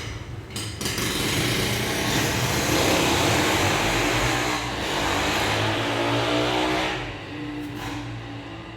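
A power tool running loud and steady for about six seconds, starting about a second in and stopping about seven seconds in.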